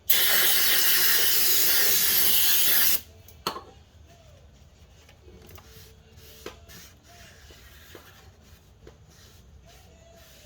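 Aerosol spray can hissing in one long spray of about three seconds, then a brief second squirt about half a second later.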